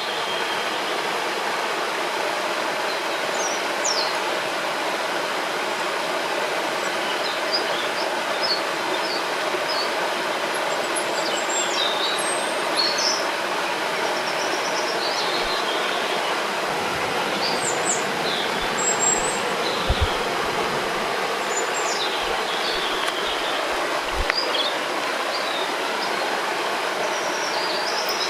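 Steady rushing of a river or stream, with small birds chirping and trilling off and on above it.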